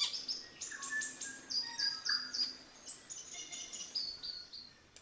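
Forest birds singing: a scattered run of short whistled and chirping notes at several different pitches, some stepping up or down.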